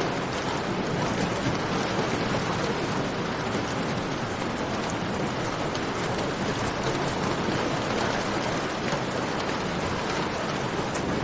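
Steady rain falling and dripping in a cave, with scattered small sharp crackles from a campfire.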